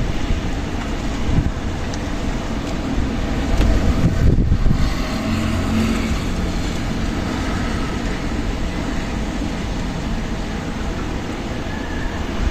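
Strong wind blowing: a steady, deep rushing noise that swells in a gust about four seconds in.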